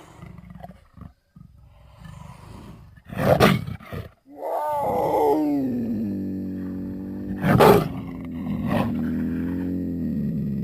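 Big cat sound effect: a low, rough growl, a short loud roar about three seconds in, then a long roar that falls in pitch and holds steady for several seconds, broken by two short sharp bursts.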